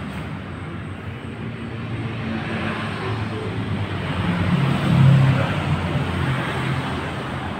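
A motor vehicle passing by: a steady low engine hum with rushing noise that swells to its loudest about five seconds in, then fades.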